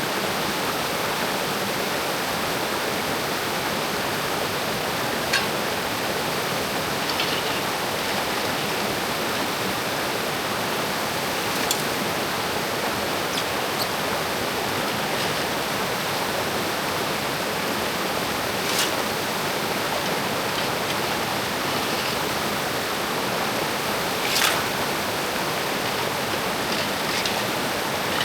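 Mountain creek water rushing steadily, with a few short clicks and knocks scattered through it, the sharpest near the end.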